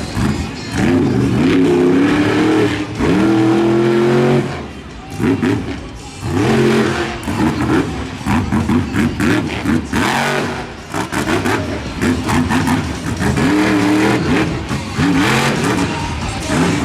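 Monster truck engine revving hard and falling off over and over, its pitch rising and dropping with each throttle stab, with short lulls about five and eleven seconds in.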